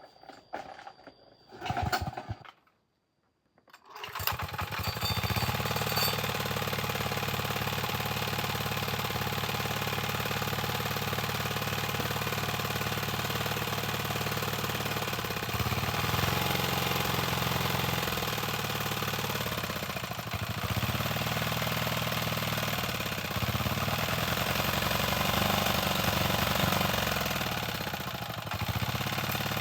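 Engine of a repaired earth milling machine (tiller), a 173-type engine, starts about four seconds in and runs loudly. From about halfway through, its speed dips and recovers several times, then it cuts off suddenly at the end.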